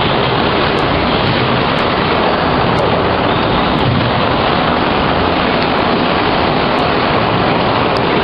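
Steady, loud factory machinery noise, an even dense din with no clear rhythm, from a water heater tank production line running.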